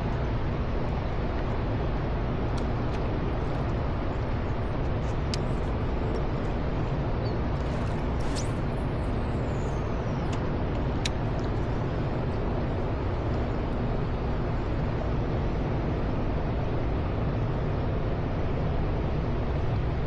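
A steady low rumbling noise, with a few faint clicks over it.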